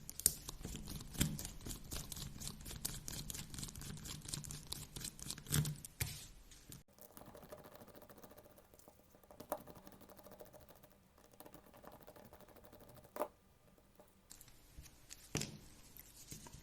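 Light, rapid clicking and rattling of small plastic parts and tools as an RC car's plastic differential is taken apart by hand. It lasts about six seconds, then gives way to a few single clicks and taps.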